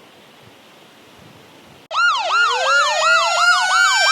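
Faint steady background noise, then about two seconds in a loud siren-like warbling tone starts suddenly. It rises and falls about twice a second over a tone that climbs steadily.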